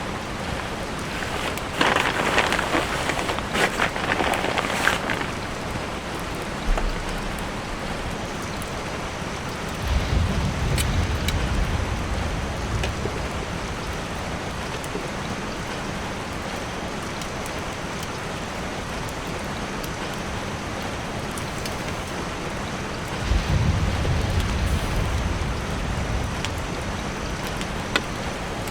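Steady rain falling on a tarp shelter, with scattered drop clicks. It is louder for a few seconds near the start, and there are two low rumbles, one about a third of the way in and one near the end.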